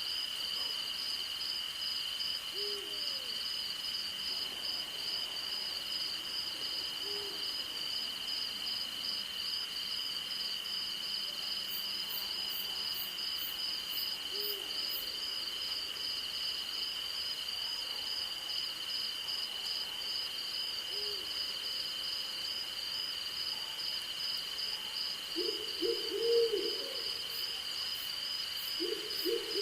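Night crickets and insects trilling steadily at a high pitch, one a fast pulsing trill. An owl gives single short low hoots every few seconds, then a quicker run of hoots near the end.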